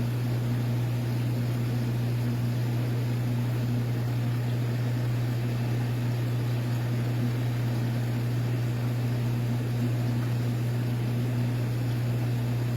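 Steady low electrical hum with an even hiss of air and water, typical of aquarium air pumps and filters running.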